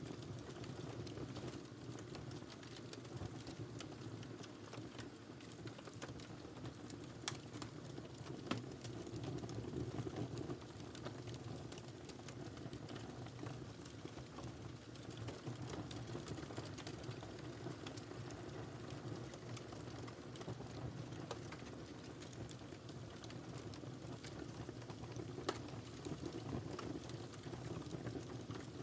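Wood fire burning in a fireplace: a steady low rumble of flames with scattered crackles and a few louder pops.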